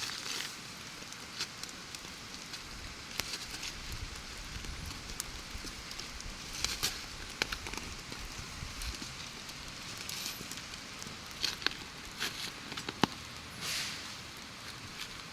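Steady rain hiss with sharp clicks and knocks scattered at irregular intervals.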